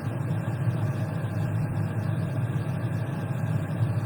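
A steady low rumble with no breaks or changes.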